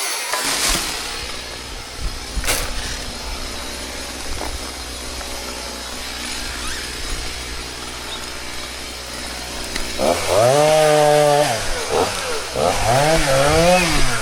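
Chainsaw running at idle, then revved up and let back down twice in the last few seconds.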